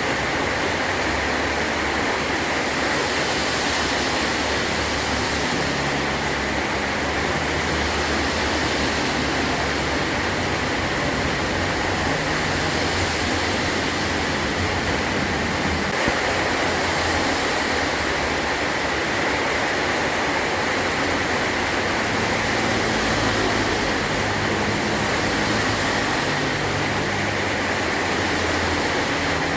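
Heavy rain pouring steadily onto a metal roof, an even hiss with a shifting low rumble underneath.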